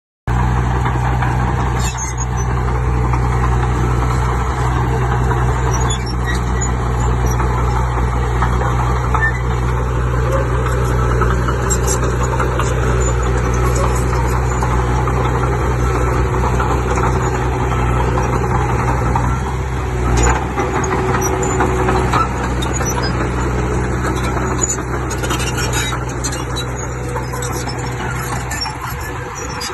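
Heavy diesel engine of earthmoving machinery running steadily with a deep drone, with a single clunk about two-thirds of the way through.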